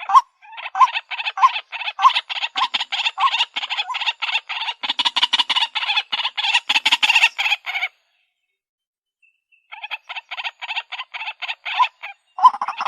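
White-breasted waterhen calls from a mixed lure recording: fast, repeated harsh croaking notes with a clearer call note recurring about every half second. The calling stops dead for under two seconds about eight seconds in, then resumes.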